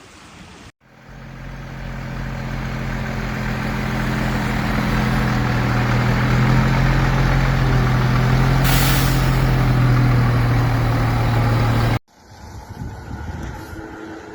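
A heavy road vehicle's engine runs with a steady low hum and grows louder as it comes closer, with a short burst of hiss about nine seconds in. The sound starts abruptly about a second in and cuts off suddenly near the end.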